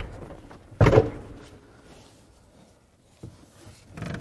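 A single loud clunk about a second in, fading quickly, then a faint knock and some light handling noise near the end: parts knocking while a car seat is being worked loose.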